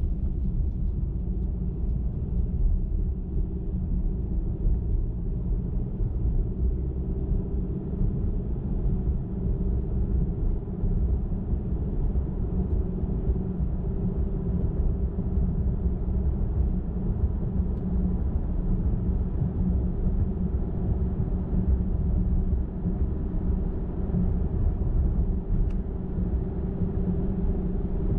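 Car driving steadily at highway speed: a continuous low rumble of tyres on the road and the engine, with a faint steady hum and no change in speed.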